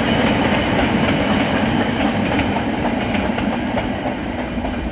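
Wagons of a steam-hauled freight train rolling past, wheels clicking over the rail joints, the sound easing slightly toward the end as the last wagons go by.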